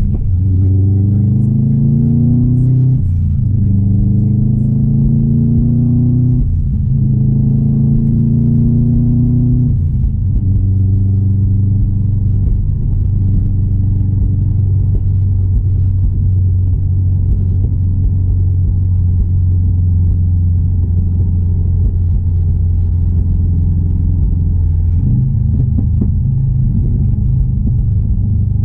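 2016 Subaru WRX STI's turbocharged 2.5-litre flat-four pulling under acceleration, its pitch climbing and then dropping at three upshifts about 3, 6.5 and 10 seconds in. After that it holds a steady drone while cruising, shifting slightly in pitch near the end.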